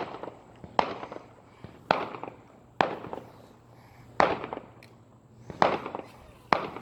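Consumer fireworks going off in a quick series: about seven sharp bangs, roughly one a second, each trailing off in an echo.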